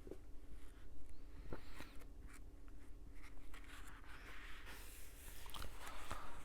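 Faint paper rustling with a few small clicks, as of book pages being handled and turned, over a faint steady hum.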